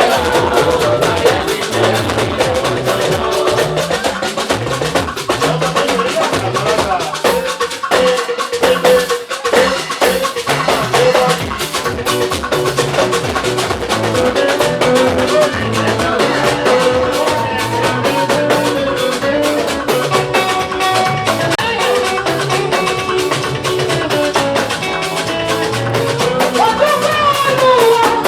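Live gospel band music with a steady drum-kit and percussion beat under pitched instrument lines; the bass thins out briefly about eight seconds in.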